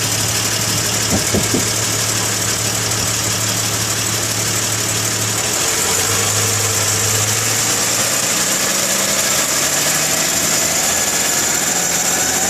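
2001 Isuzu Rodeo running with a steady high-pitched whine over the engine hum, its pitch creeping up slightly in the second half, and a couple of light clicks about a second in. The owner is trying to tell whether the whine comes from the transmission, which is leaking reddish fluid.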